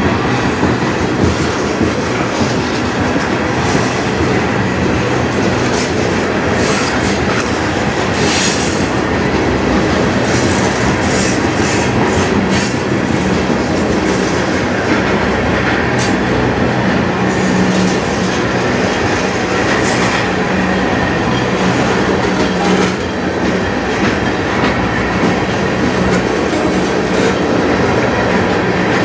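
Freight train tank cars rolling past close by: a steady, loud rumble of steel wheels on rail, broken by scattered sharp clacks.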